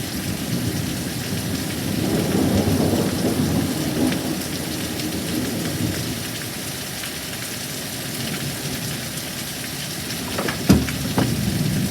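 Heavy thunderstorm: steady heavy rain with thunder rumbling, swelling a couple of seconds in and slowly dying away. A single sharp click near the end.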